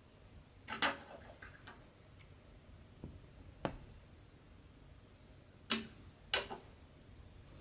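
Sharp, irregular clicks and ticks from hand cross-stitching, as the needle is pushed through taut stitching fabric and the thread is drawn. The four loudest come about a second in, a little before four seconds, and twice close together near six seconds.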